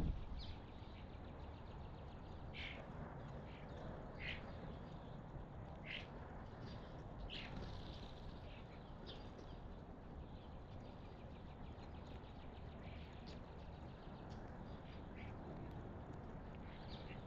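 Wild birds giving short, scattered calls every second or two over a steady low background noise.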